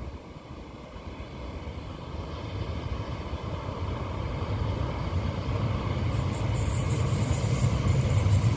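Diesel locomotive hauling a fuel tanker freight train approaching, its low engine rumble growing steadily louder. About six seconds in, a hiss and rapid clatter of wheels on rail joins it.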